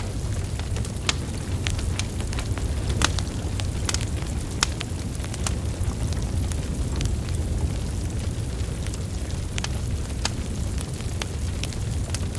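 Wood fire burning: irregular sharp crackles and pops from the logs over a steady low rumble of flames, with a couple of louder pops a few seconds in.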